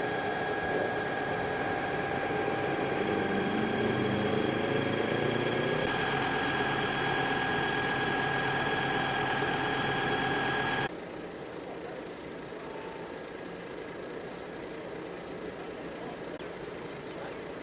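A heavy vehicle engine running steadily with a high whine, which cuts off abruptly about 11 seconds in, leaving a quieter steady rumble.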